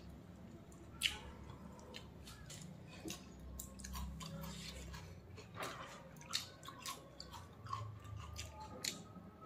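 A person eating rice and chicken liver curry with her fingers: faint chewing with scattered small wet clicks and smacks, a few a second.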